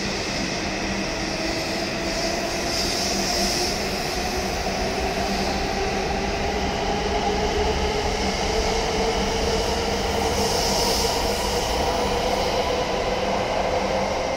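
E7 series Shinkansen pulling out from a standstill and gathering speed, its traction motors whining in tones that climb steadily in pitch over a steady running noise.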